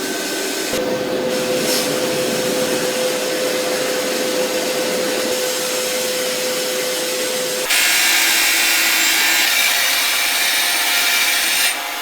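Power tool abrading, a steady hum under continuous rasping noise. About eight seconds in, the sound switches abruptly to a brighter, hissier scraping that stops just before the end.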